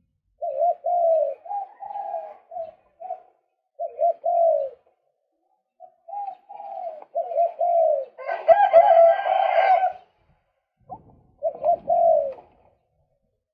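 Male white-breasted waterhen calling: runs of quick, repeated arched notes in several phrases with short pauses between, with a louder, harsher stretch about eight seconds in.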